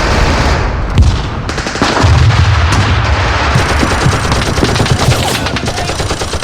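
Battle sound effects of dense, rapid gunfire, rifle shots and machine-gun bursts overlapping, with a heavier low rumble about two seconds in.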